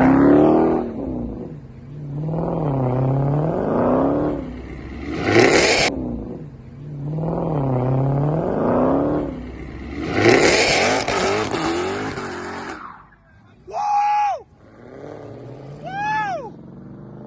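Supercharged 6.2-litre Hellcat V8 revved hard three times in long pulls, the engine note climbing and falling back each time. Near the end come a few short, high sounds that rise and fall in pitch.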